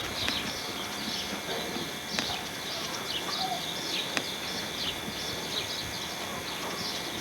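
Small birds chirping over and over against a steady outdoor hiss, with a few sharp clicks.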